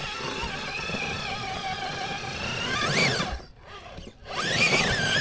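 RC rock crawler's electric motor and geartrain whining, revving up and back down twice in the second half with a short pause between, as the truck works to get back on its wheels after rolling over.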